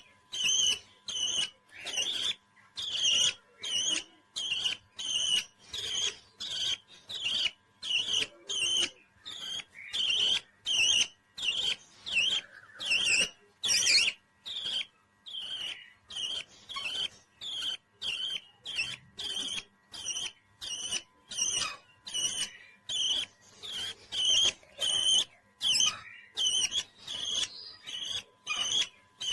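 A parrot chirping over and over, short sharp calls about twice a second in a steady, even rhythm.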